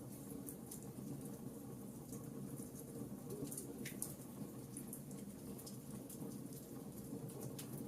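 Wood fire in a fireplace crackling: scattered small pops and snaps, one a little longer about four seconds in, over a steady low background.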